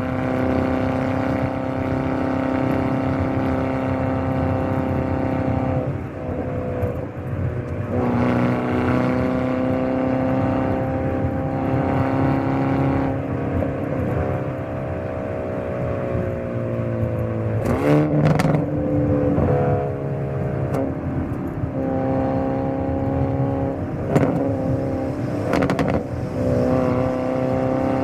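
Hyundai Elantra N's turbocharged 2.0-litre four-cylinder engine and exhaust under hard driving: the engine note climbs steadily in pitch, then drops sharply as gears are shifted, several times over. A few sharp cracks come at some of the shifts.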